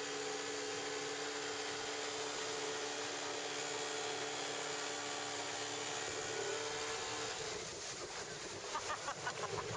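Motorboat engine running steadily with a hum of two steady tones over wind and water noise; about seven and a half seconds in the hum stops and a quick, pulsing, wavering sound takes over.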